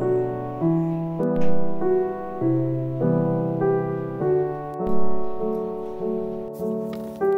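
Piano music: a slow melody of sustained notes, a new note about every half second.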